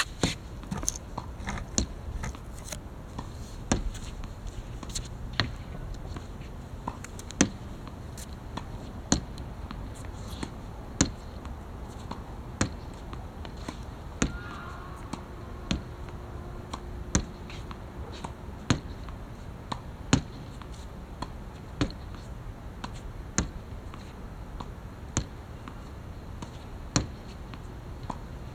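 Badminton rackets striking a shuttlecock: sharp cracks at a steady pace, roughly one every second and a half to two seconds.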